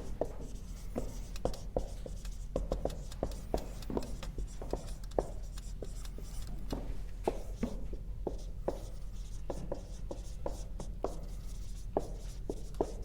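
Writing by hand: irregular short scratches and taps of a pen or marker, several a second, over a low steady hum.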